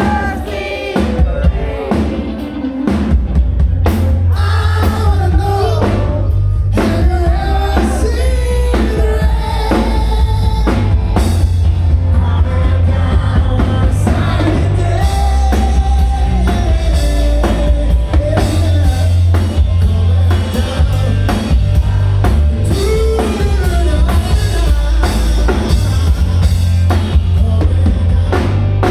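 Rock song with a drum kit and bass, a man singing the melody over them.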